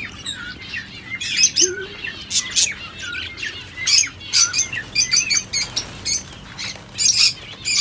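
Lovebirds chattering in a cage: many short, high-pitched chirps and squawks in quick, irregular succession, mixed with some rising and falling whistled notes.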